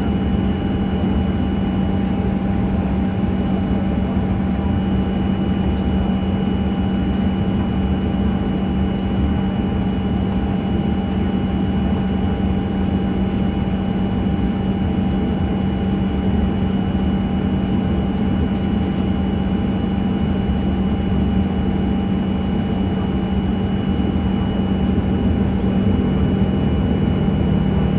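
Steady cabin drone of a Boeing 737-900 with its CFM56 engines at low thrust, heard from inside the cabin: a loud, even rumble with a few steady whining tones. Near the end the low tone shifts slightly and the level rises a little.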